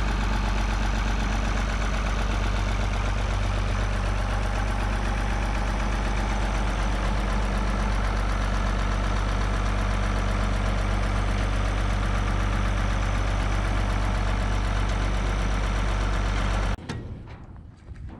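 International hydro loader tractor's engine running steadily, then cutting off suddenly about a second before the end.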